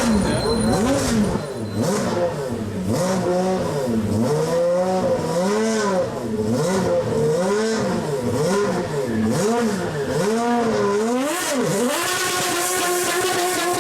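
Aston Martin Vulcan's 7-litre V12, heard through its side-exit exhausts, being revved up and down over and over, about once a second. About twelve seconds in, it settles and holds at a steady high rev.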